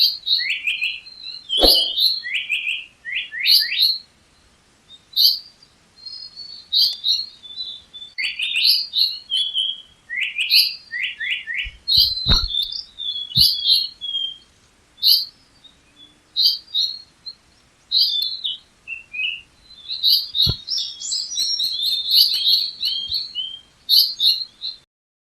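A songbird singing a long, varied run of quick chirps and downward-slurred whistled notes, in phrases with short pauses, with a few faint knocks among them.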